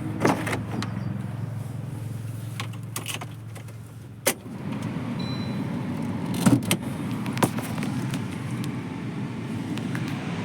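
A car engine running steadily, fading out about four seconds in, followed by a sharp click, then a rougher rumble with a few knocks and rattles of handling.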